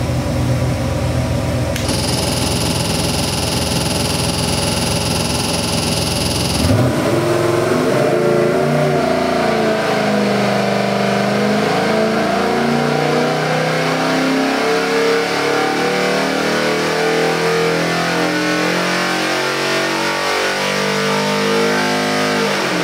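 Gen III 392 Hemi V8 crate engine running on an engine dyno. It runs steadily for the first several seconds, then about seven seconds in the sound changes abruptly as it revs up and is held at high revs, its pitch shifting.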